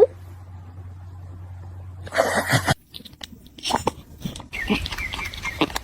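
Domestic cat making short sounds: a breathy burst about two seconds in, then scattered clicks and brief chirps.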